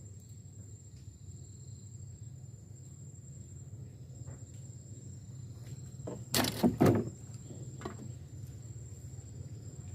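An insect's steady high-pitched trill over a low steady hum, with a quick cluster of loud knocks about six and a half seconds in.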